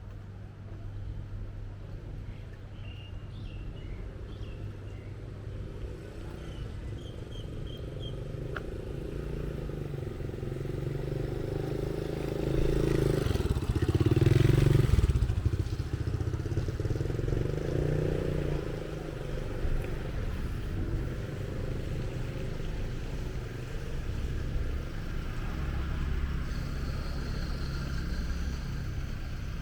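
Street traffic running steadily, with a motor vehicle passing close by about halfway through, swelling and fading as it goes past.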